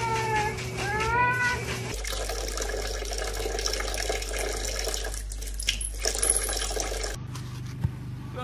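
A husky howling with a wavering, rising and falling pitch for about a second and a half. Then a kitchen tap runs a thin stream of water into a sink for about five seconds.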